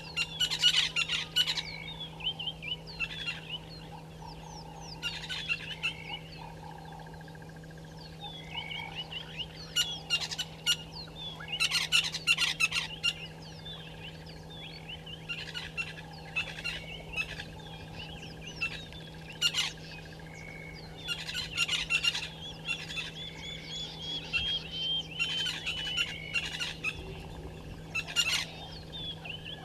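Wild birds chirping and calling in short bursts of quick trills, coming every couple of seconds, over a steady low hum.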